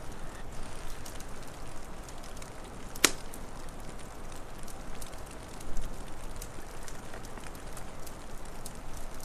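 Wood fire crackling over a steady hiss, with scattered small pops, one sharp loud pop about three seconds in and a low thud near six seconds.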